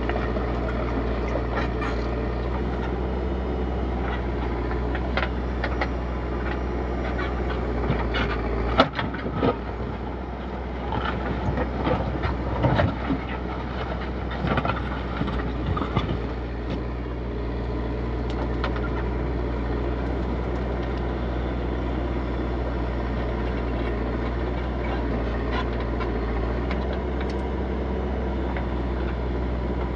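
Backhoe loader's diesel engine running steadily, with a run of metallic clanks and scrapes from the bucket and digging arm from about 9 to 16 seconds in, the loudest clank near the start of that run; the engine note shifts under the load of the dig, then settles back to a steady run.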